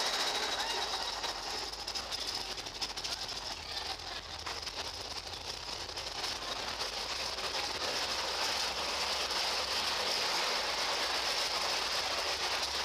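Big Thunder Mountain Railroad mine-train roller coaster rattling along its track, with a stretch of rapid clicking a few seconds in.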